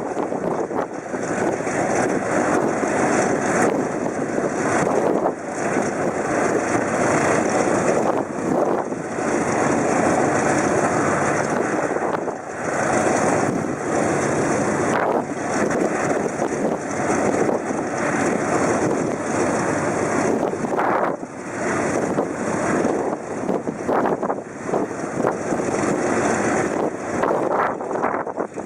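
Piston aircraft engines running steadily, with wind buffeting the microphone.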